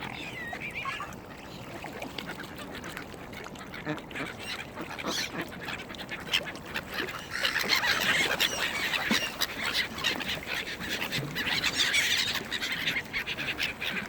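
A crowd of waterbirds calling, with mallard ducks quacking among them; the calling gets busier and louder about halfway through.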